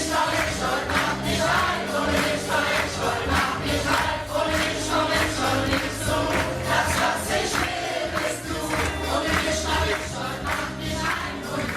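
A band playing an upbeat carnival song with a steady drum beat while a group of singers sings together.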